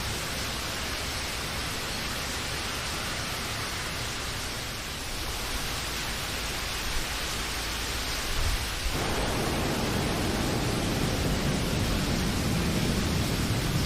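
Steady heavy rain. About nine seconds in a deeper low rumble joins it and keeps going.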